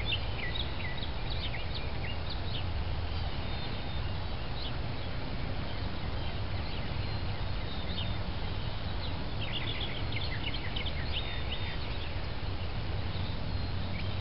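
Birds chirping in quick runs of short high notes, at the start and again about nine seconds in, over a steady low outdoor rumble.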